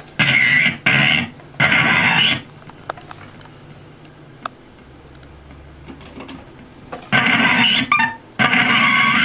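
Circuit-bent toy sound chip firing off short, harsh electronic sound bursts run through effects: three in quick succession, a pause of several seconds, then two more near the end.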